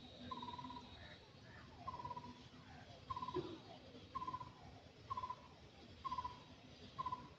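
A bird in the background calling one short, slightly wavering note about once a second, over and over, with fainter falling whistles between the calls.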